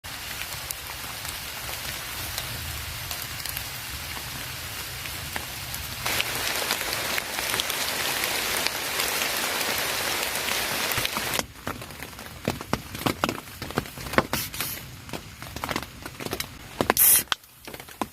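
Steady heavy rain, growing louder about six seconds in. It cuts off suddenly after about eleven seconds, giving way to a run of irregular knocks and taps, with one short loud hiss near the end.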